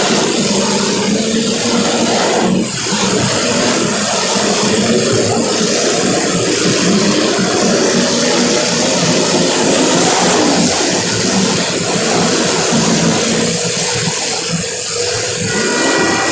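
Several small race car engines running together as the cars lap the track in a feature race. The sound is loud and continuous.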